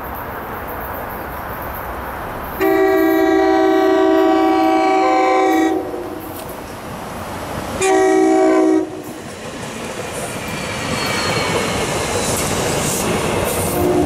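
SEPTA Silverliner IV electric multiple-unit train sounding its multi-tone horn as it approaches, one long blast then one short one. After the horn comes the growing rumble and wheel noise of the train running past.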